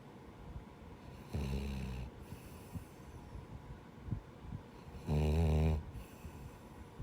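Labrador–Schnauzer mix dog snoring in its sleep, a person-like snore: two snores about four seconds apart, the second louder, with quieter breathing between.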